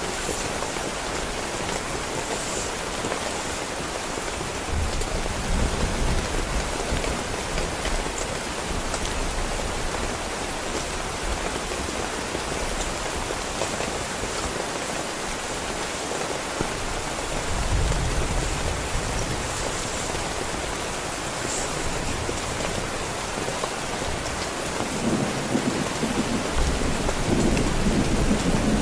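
Heavy rain pattering steadily on a tent, with low rolls of thunder: one about five seconds in, another a little past the middle, and a longer, louder one near the end.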